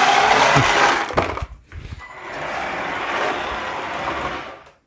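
Cheap all-wheel-drive RC drift truck being driven, its electric drivetrain and tyres scrubbing on the surface. The first run is loud and lasts about a second; the second, steadier run lasts about two and a half seconds and fades out near the end.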